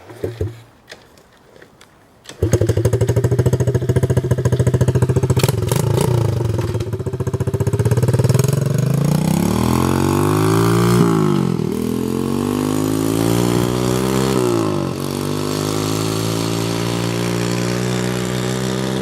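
Pit bike engine starting after a few short knocks, catching suddenly about two and a half seconds in and running fast and steady, then revved up and down several times.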